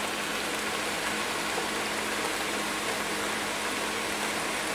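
Oxtail and tripe sizzling steadily in a pan, a constant even hiss with a faint steady hum underneath.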